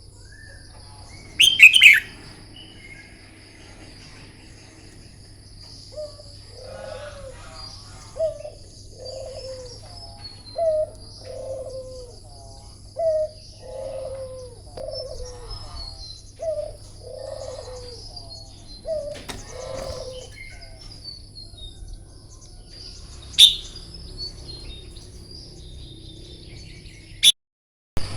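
Red-whiskered bulbul calling in short, loud bursts about two seconds in and again near the end, with a run of low, repeated falling notes in between. A steady high-pitched whine runs underneath.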